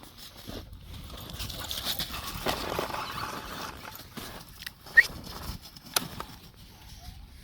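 Crunching and scuffling of movement through snow, with a short high squeak about five seconds in and a sharp click a second later.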